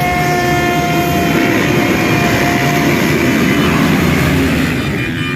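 A pack of motocross bikes revving hard on the starting line, engines held high and steady. The sound grows thicker and rougher about two seconds in.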